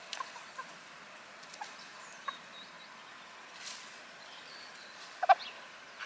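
Chickens clucking softly: a few short scattered clucks, with one louder cluck about five seconds in.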